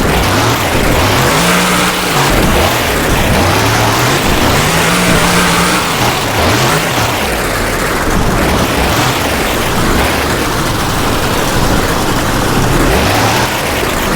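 Monster truck engine revving up and down repeatedly, its pitch climbing and falling every second or two, over a loud steady rush of noise.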